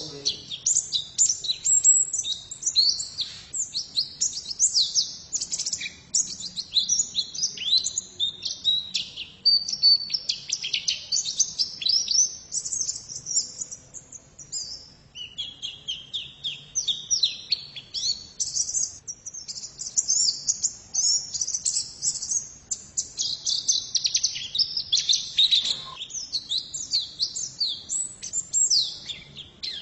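Female white-eye (pleci) singing a rapid, continuous high twittering song of quick chirps, easing off briefly about halfway through.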